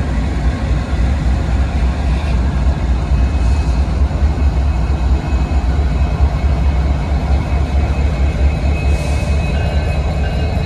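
A train running by with a steady, loud low rumble.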